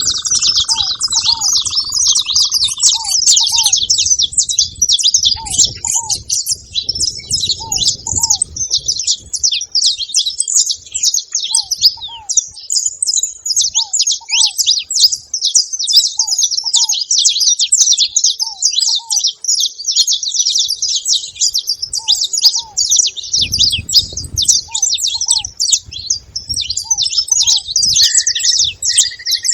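A flock of saffron finches chattering continuously at a feeding spot, a dense stream of high, quick chirps. Through it another bird repeats a short pair of lower notes every second and a half to two seconds.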